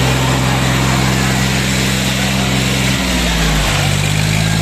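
Diesel tractor engines running steadily. About three seconds in the engine note drops and then holds lower.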